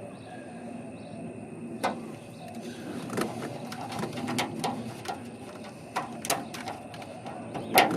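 Scattered sharp clicks and light knocks from hand work on the light fixture and its screws, about five in all.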